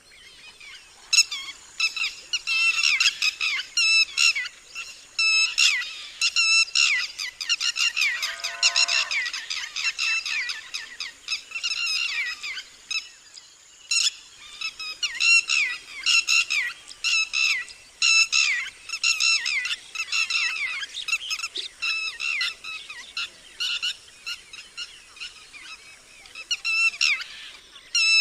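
Red-wattled lapwings giving their loud alarm call, the 'did-he-do-it' phrase, in rapid repeated series of sharp, shrill notes. There is a brief lull about thirteen seconds in before the calling resumes.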